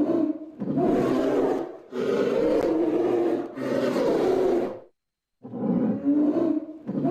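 A large animal roaring in a series of rough calls about a second long each, with short gaps and a brief cut to silence about five seconds in.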